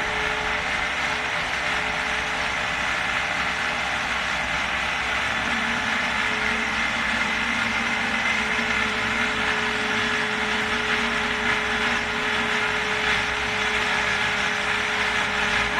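An old food processor's motor runs steadily, whirring at one constant pitch, as it emulsifies egg yolks, lemon juice and oil into a mayonnaise.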